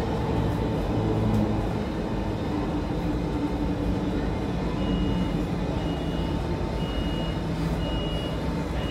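Steady rumble of an MTR C-Train running, heard from inside the carriage. From about halfway through, a short high beep repeats roughly once a second.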